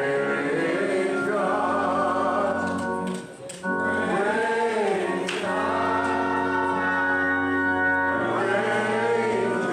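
Gospel singing by a choir over sustained organ chords, with a short break about three and a half seconds in.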